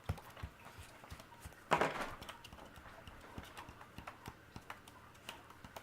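A cockatiel's beak and claws tapping and clicking lightly and irregularly on a hard surface, with a short noisy rustle about two seconds in.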